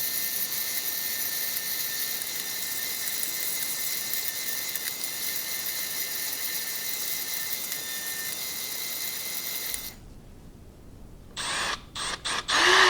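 Refurbished Craftsman drill press running steadily while old paint and rust are cleaned off steel screws, a hissing, high-pitched sound that stops after about ten seconds. A few short, louder bursts follow near the end.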